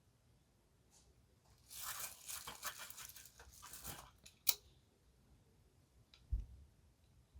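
Crinkling and rustling of packaging handled for about two seconds, then a single sharp click and a soft low thump.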